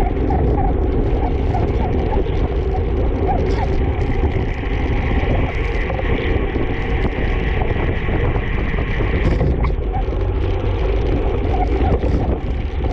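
Wind rushing over the microphone of a camera riding along on a racing bicycle at speed, as a loud, steady rumble with a hiss above it. A faint high whine runs through the middle and stops about nine seconds in.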